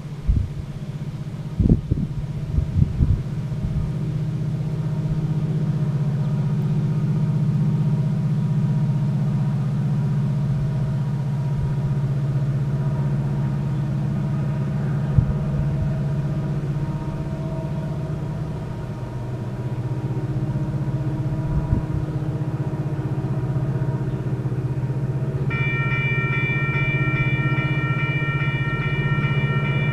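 Diesel engines of approaching EMD SD70M locomotives rumbling steadily, with wind buffeting the microphone in the first few seconds. Near the end, a locomotive air horn sounds a chord of several notes and holds it.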